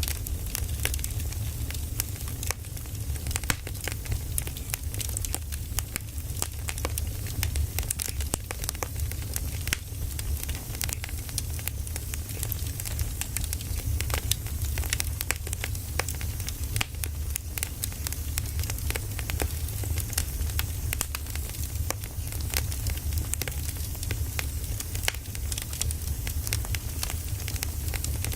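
Firewood burning, crackling and popping with many small irregular snaps over a low steady rumble.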